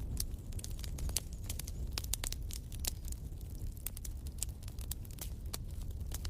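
Fire in a fireplace crackling, with frequent sharp pops and snaps over a low, steady rumble of the flames.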